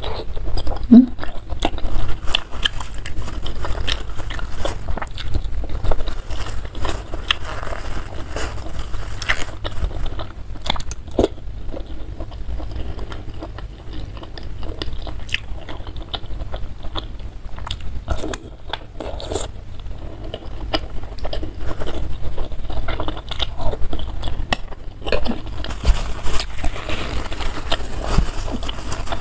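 Close-miked eating: biting and chewing meatballs and noodles from a bowl of spicy soup, with wet mouth sounds and scattered short clicks.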